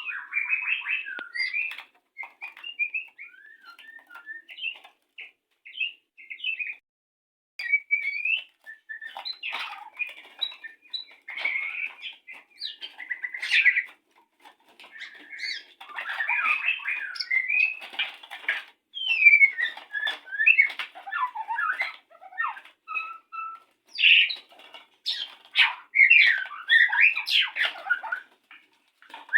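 White-rumped shama singing its courtship song, a varied run of whistled phrases, rising and falling glides and harsh chattering notes in bursts separated by short pauses; the song of a bird ready to mate.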